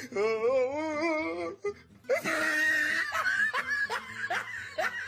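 People laughing: a long wavering high-pitched laugh, then from about two seconds in a run of short, choppy bursts of laughter.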